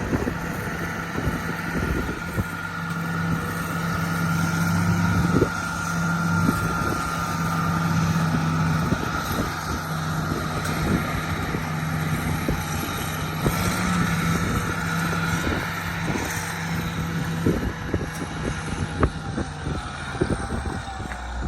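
Road roller's diesel engine running steadily, with a steady higher whine over it and scattered short knocks.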